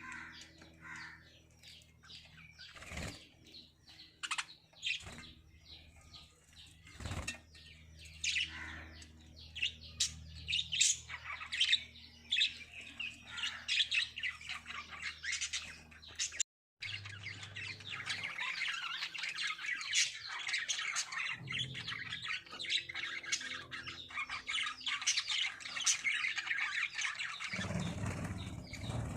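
A flock of caged lovebirds chirping and squawking continuously, with a few sharp clicks among the calls in the first half. The sound breaks off for an instant about midway, then comes back as a denser, busier chorus of chirps.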